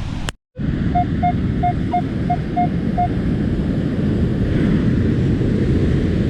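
Metal detector beeping on a target: seven short, even beeps at one pitch over about two seconds. Steady wind rumble on the microphone and surf lie under it.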